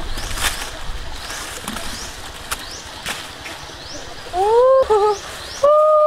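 Forest birds calling: small high rising chirps repeat every half second or so, and from about four seconds in a louder bird gives low hooting calls, first a rising hoot, then short wavering notes, then a held note. A few brief rustles of leaves come early on.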